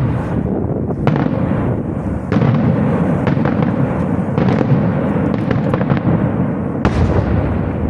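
Fireworks display going off in a dense barrage: a continuous rumble of bursts, with sharp bangs standing out about once a second in the first half and again near the end.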